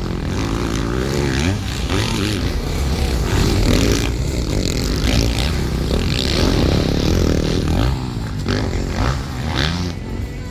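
Several motocross bikes racing on the track, their engines revving up and down and overlapping as they accelerate and pass.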